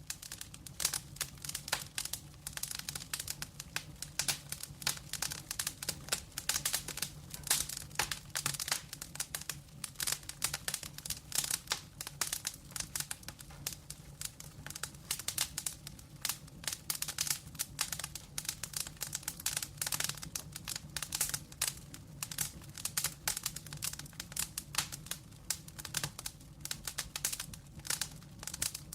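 Wood fire of burning logs in a fireplace crackling and popping, dense and irregular, over a low steady hum.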